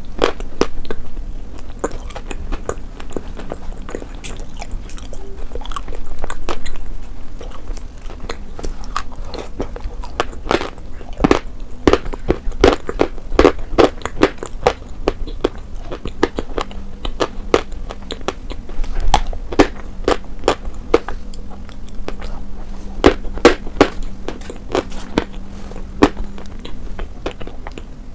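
Close-miked chewing and biting of mutton: wet mouth smacks and clicks throughout, with no speech.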